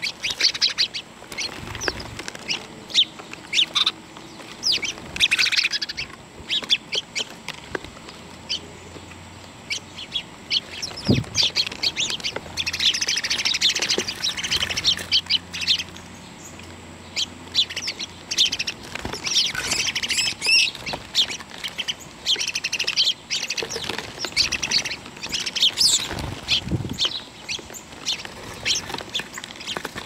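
Birds chirping and calling, many voices overlapping, the chatter thickening into busy bursts every few seconds.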